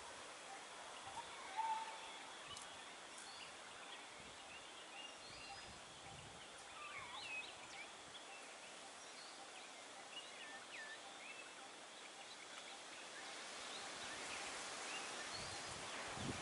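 Faint outdoor ambience with scattered small bird chirps throughout, and one brief, louder whistled bird note about a second and a half in.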